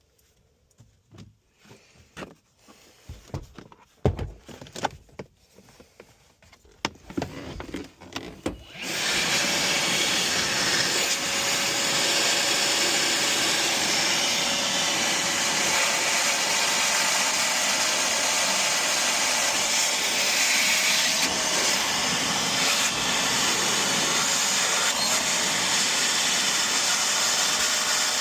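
A few knocks and clatters, then about nine seconds in a vacuum motor switches on and runs steadily with a loud even hiss and a faint steady whine.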